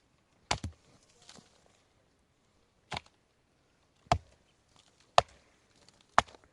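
A series of sharp chopping strikes, about six, roughly a second apart, the last three the loudest.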